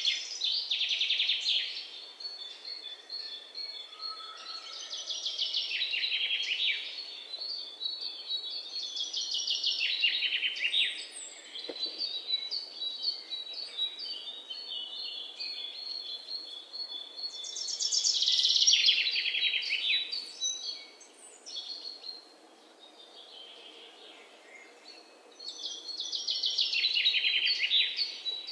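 Bird song: a songbird singing rapid trilled phrases that fall in pitch, one every few seconds, with thin high chirps between them.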